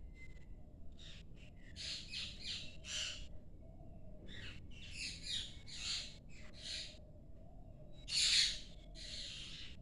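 Parrots calling: short harsh squawks and chatter in quick clusters, the loudest call about eight seconds in.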